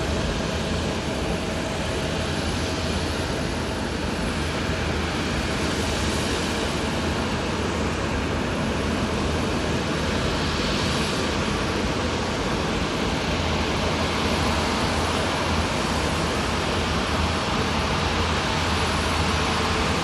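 Jet airliner engine noise at an airport: a steady rushing roar that swells slightly in hiss about halfway through.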